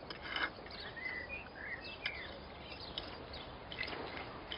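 Outdoor background noise with a few short bird chirps about a second in, and a few faint clicks.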